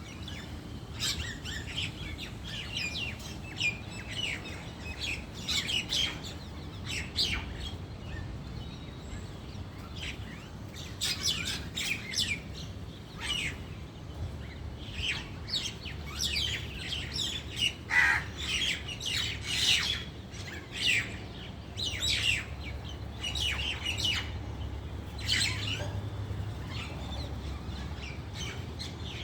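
Several small birds chirping and calling in quick bursts, over a steady low rumble.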